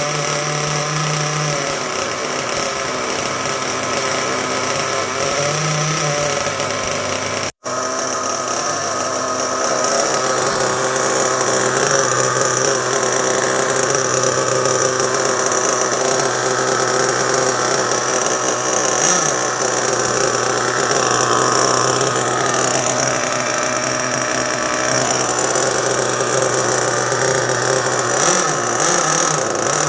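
Kyosho USA-1 monster truck's .25 nitro glow engine running steadily at idle after being started. It is loud and continuous, with one brief dropout about eight seconds in.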